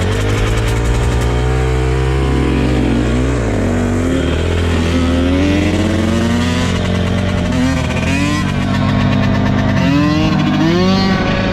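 Dirt bike engine running under way, its pitch rising and falling again and again as the rider works the throttle through the gears, with several quick rising revs near the end.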